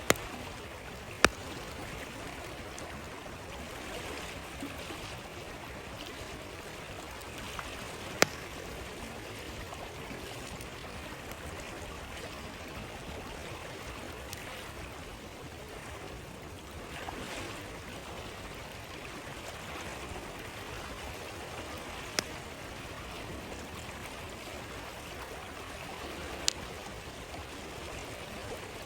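Stream flowing steadily, with a few sharp, isolated pops from a crackling wood campfire spread out over the stretch.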